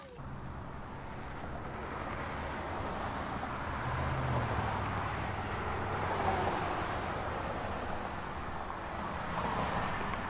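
Steady rushing wind noise with a low engine hum underneath, as from a moving vehicle.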